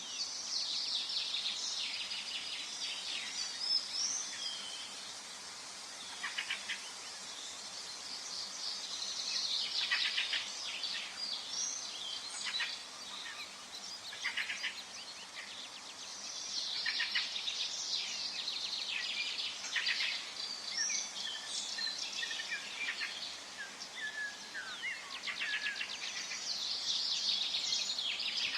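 Forest birdsong: several small birds singing and calling at once, in bursts of quick high chirps and trills every few seconds, over a faint steady background hiss.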